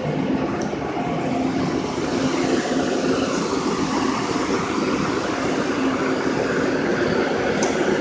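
Steady mechanical rumble of heavy machinery, with a low drone held throughout.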